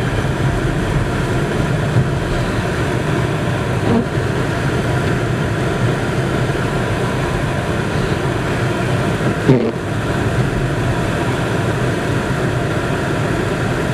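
Steady engine and road noise of a car driving on a snowy road, heard from inside the cabin, with two brief squeaks a few seconds apart.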